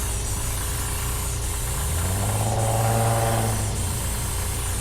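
Vehicle engine running over a steady hiss, its pitch and loudness swelling and then falling back about halfway through.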